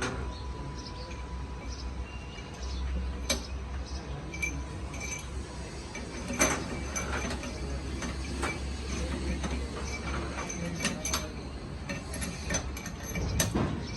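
Hand tools and metal engine parts being worked: scattered sharp metallic clicks and clinks, a few at a time, over a low steady hum that runs through most of the middle and stops near the end.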